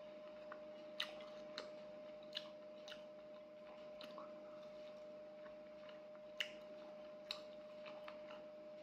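Quiet chewing and mouth sounds of a person eating by hand from a plate, with a few short sharp clicks scattered through it, the loudest about a second in and again about six and a half seconds in. A faint steady hum runs underneath.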